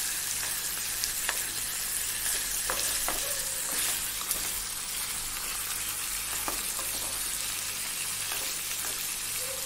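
Raw chicken pieces sizzling in hot olive oil with aromatics in a nonstick wok, with a spatula scraping and tapping against the pan as they are stirred a few times.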